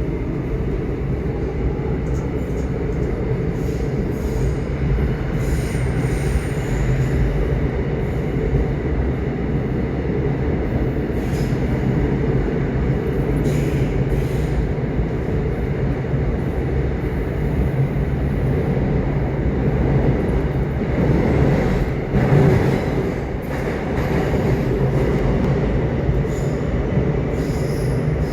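Subway train running with a steady low rumble, faint wheel squeal and occasional clicks from the track. The noise swells louder about three-quarters of the way through.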